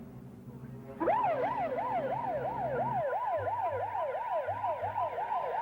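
Emergency vehicle siren starting about a second in, on a fast yelp that sweeps up and down about three times a second.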